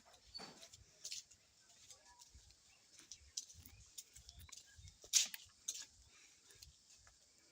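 Faint, irregular clicks and taps, with one louder sharp click about five seconds in.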